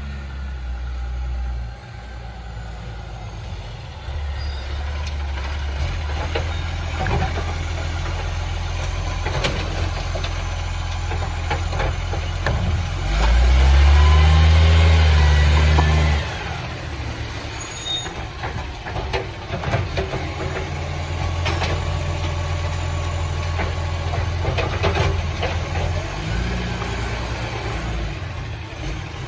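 Diesel engine of a garbage truck running steadily, rising louder for about three seconds midway, with scattered clanks and knocks.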